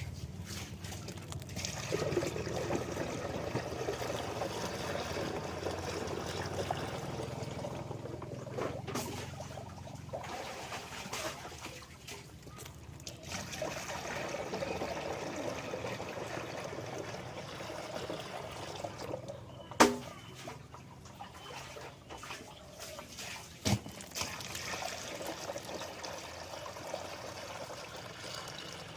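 Water pouring into a 16-litre knapsack sprayer tank in a steady stream, with a few short breaks. Two sharp knocks come late on.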